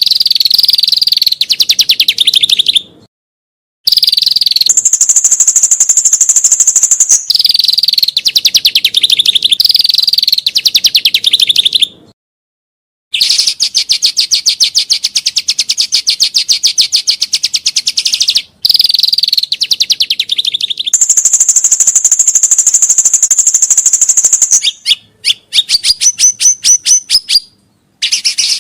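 Songbird song in phrases of fast, rapidly repeated high, shrill notes, harsh chattering runs alternating with clearer, higher trills. The phrases stop dead with abrupt silent gaps between them, as in a cut-together song recording.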